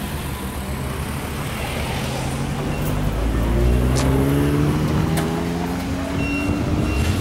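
A car engine running and slowly gaining revs, its pitch rising steadily from about three seconds in as it gets louder.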